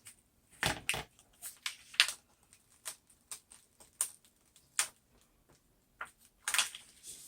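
Adhesive vinyl crackling and ticking as the unwanted negative of a Cricut premium vinyl decal is peeled off its backing sheet. The crackles come irregularly, with a denser, louder cluster near the end.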